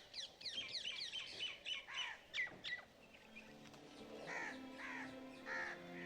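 Birds calling in a rapid string of short, falling chirps, thinning out after about three seconds. Soft sustained background music comes in underneath, with a few more calls over it.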